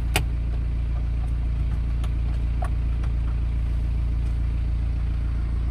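BMW X4 20d's 2.0-litre four-cylinder turbodiesel idling steadily, heard from inside the cabin, with one sharp click near the beginning.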